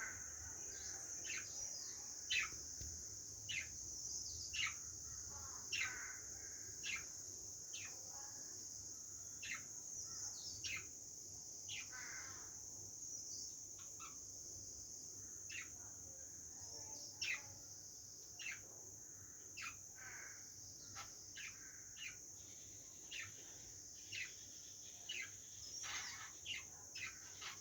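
Small birds giving short, sharp calls that each drop steeply in pitch, repeating about once a second, over a steady high-pitched insect drone.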